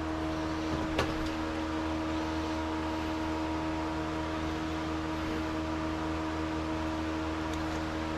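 A small motor running with a steady hum made of several fixed tones, and one sharp click about a second in.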